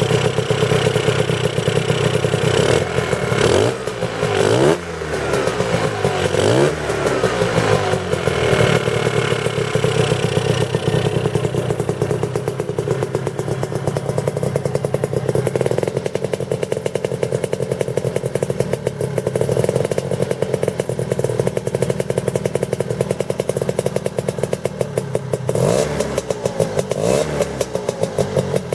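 Lambretta two-stroke scooter engine with a Casa 185 kit, TSR Evo expansion exhaust and 25 mm Dell'Orto carburettor, running at a steady low speed. It is blipped up and back down a couple of times a few seconds in, and again near the end.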